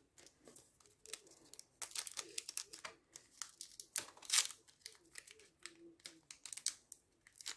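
Foil trading card pack being handled and torn open, with irregular crinkling and crackling of the wrapper.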